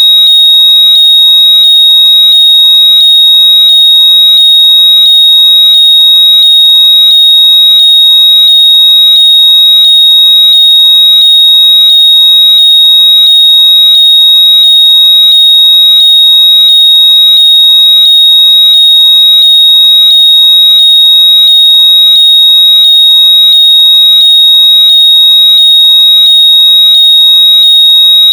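Very loud, steady, high-pitched electronic tone, with faint rising sweeps repeating quickly underneath. It is a locator noise played at full volume so that lost wireless earbuds can be heard and found.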